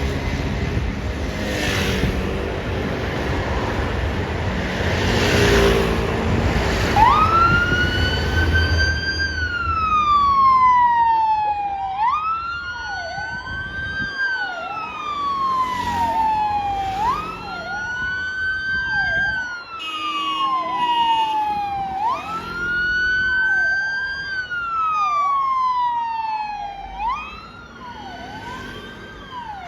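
Fire truck's siren wailing as it turns out to a fire call: a loud tone that rises and falls slowly, about once every five seconds. It starts about seven seconds in, over a stretch of engine and road noise. A second, fainter siren with quicker rises and falls runs beneath it.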